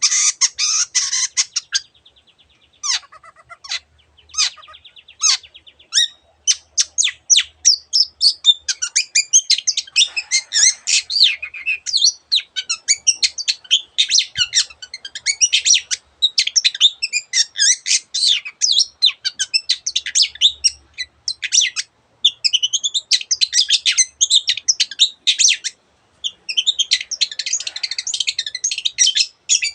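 Long-tailed shrike (cendet) singing vigorously: a varied song mixing in imitations of other birds' calls. A few separate notes and a short trill open it, then it becomes a fast, unbroken stream of high chirps and trills, with a brief pause near the end.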